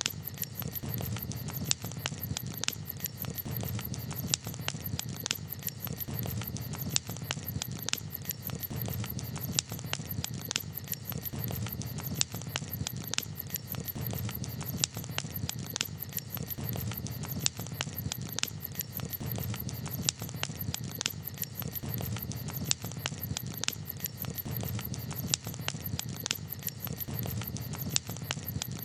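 Campfire crackling: irregular sharp pops and snaps, several a second, over a steady low rumble of the burning fire.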